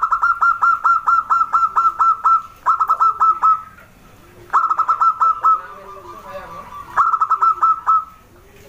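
Zebra dove (perkutut) calling: fast runs of short, staccato cooing notes, about six a second, in four bursts with brief pauses between. Fainter, lower drawn-out notes sound beneath them.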